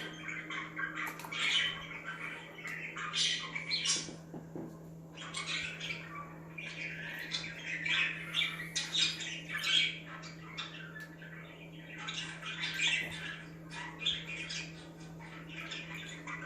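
Budgerigars (budgies) chattering and squawking, several birds calling in quick overlapping bursts with short pauses, over a steady low hum.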